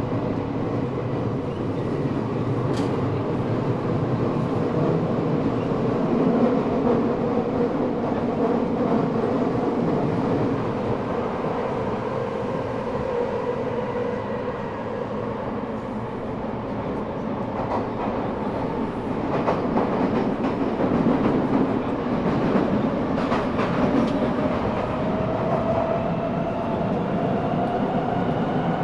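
Subway car interior running noise from an Eidan 6000 series car fitted with a Mitsubishi three-level VVVF inverter taken from a 7000 series train. Steady wheel-on-rail rumble runs under a wavering motor and inverter whine, with a few rail-joint clicks in the second half and a whine that rises in pitch near the end.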